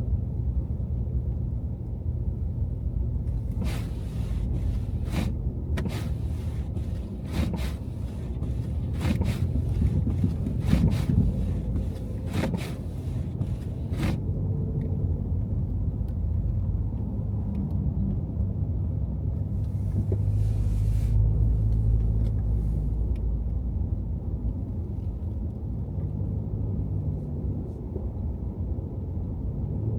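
Car driving on a snowy city road: a steady low rumble of engine and tyres, with a run of irregular sharp knocks and clicks between about 4 and 14 seconds in.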